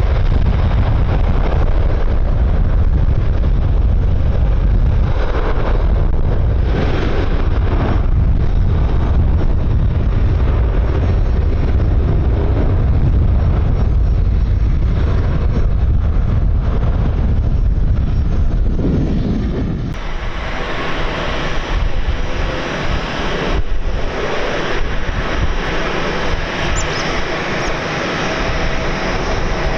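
Airliner engines: a steady, loud deep rumble with hiss. About two-thirds of the way through, the sound changes abruptly: the rumble drops away and a brighter hiss takes over.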